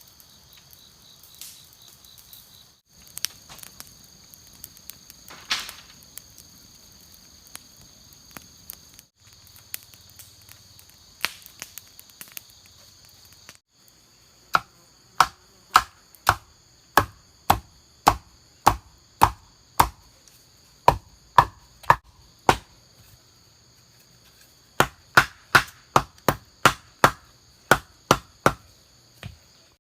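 Evenly paced chopping strikes, about one and a half a second, hacking at bamboo. They come in two runs about halfway in and near the end, with a short pause between. Before them, only a few scattered knocks over a steady high drone of insects.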